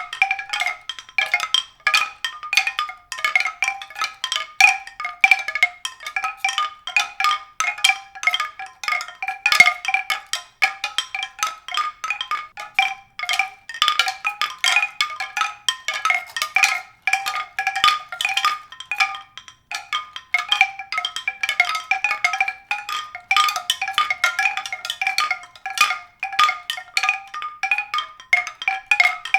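Struck tuned percussion: a dense, irregular patter of short ringing notes at a few fixed pitches, several strikes a second.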